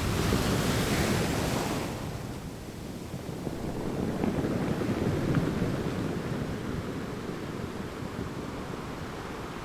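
A steady wash of ocean water noise, bright and hissing for about the first two seconds, then duller and lower for the rest.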